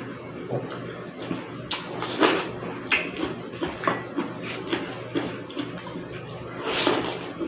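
Close-up eating sounds: chewing and slurping of sinigang soup, with two longer slurps and many small clicks of a spoon and mouth, over a steady low hum.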